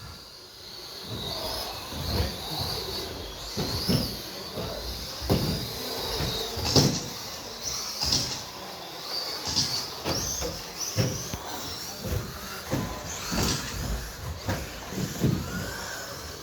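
Electric motors of RC stadium trucks whining as drivers work the throttle, the pitch rising and falling, with repeated knocks and clatters from the trucks landing and bumping around the track.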